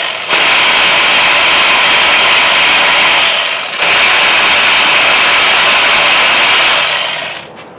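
Power tool running steadily while backing cylinder head bolts out of a small-block Chevy 350. It pauses briefly twice and stops shortly before the end.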